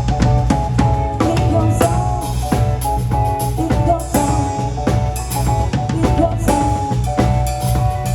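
A band playing instrumental music: a drum kit with kick, snare and rimshot hits over a steady bass line and sustained chords.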